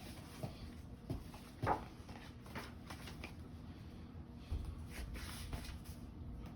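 Paper rustling and a few soft taps as the pages of a picture book are handled and turned.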